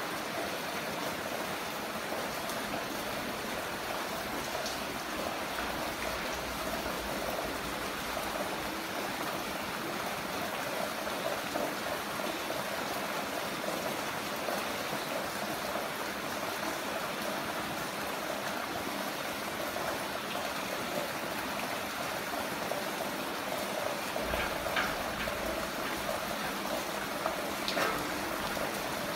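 Heavy rain falling steadily as an even wash of noise, with a few sharper drop splashes near the end.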